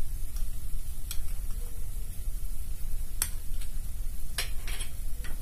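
Fresh green peas frying in oil in a pan: a steady sizzle broken by several sharp crackles and pops.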